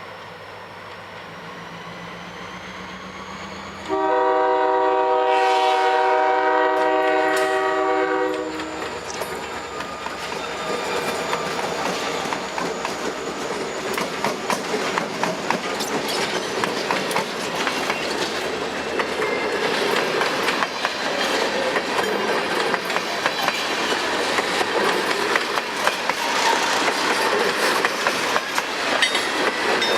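Freight locomotive air horn sounding one long blast, starting about four seconds in and lasting about four and a half seconds, over the rising drone of the diesel engines. The train then rolls past with steady clickety-clack of wheels over rail joints, growing louder toward the end.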